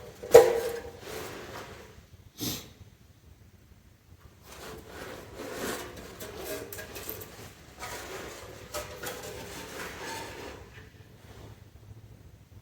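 Engine parts being handled: a sharp metallic knock about half a second in, a click a couple of seconds later, then several seconds of uneven scraping and shuffling.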